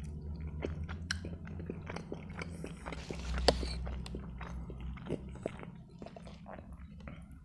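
Close-miked chewing of boiled pelmeni, with wet mouth clicks and smacks. One sharp click about halfway through is the loudest sound.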